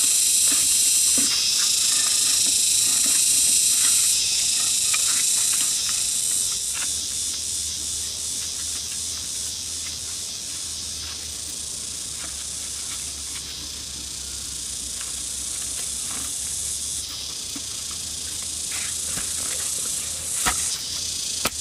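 A loud, steady, high-pitched chorus of insects buzzing. It is broken by scattered sharp clicks and snaps.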